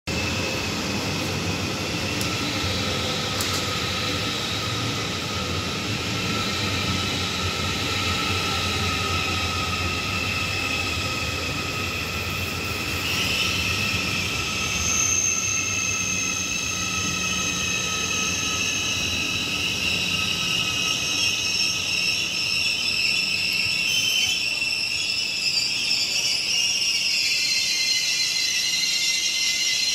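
ICE 4 high-speed train braking into a station and coming to a stop: steady running noise with several high whines and squeals. The squeals grow stronger about halfway through, and some of them glide downward in pitch as the train slows.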